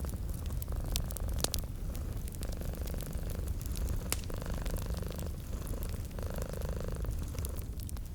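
Domestic cat purring in a steady low rumble that rises and eases every second or two, mixed with a wood fire crackling and giving a few sharp pops.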